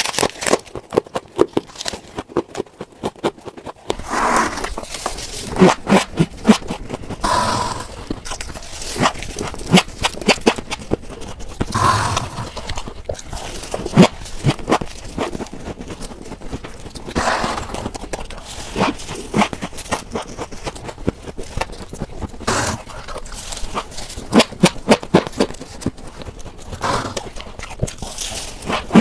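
Close-up biting and chewing of refrigerator frost ice: a dense run of sharp, crackling crunches, with a louder bite every second or two.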